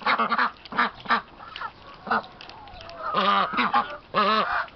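Domestic ducks quacking: a string of short calls, then two longer, drawn-out calls in the last two seconds.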